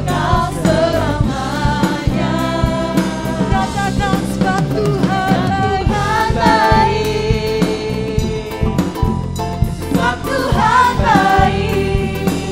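Indonesian praise-and-worship song sung by a worship team with a full band and drum kit.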